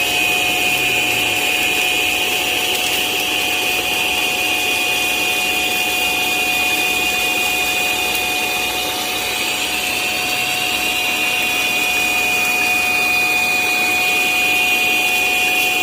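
Robot vacuum's self-emptying dock running its suction motor at full speed, a steady loud whine as it sucks the dust out of the robot's bin.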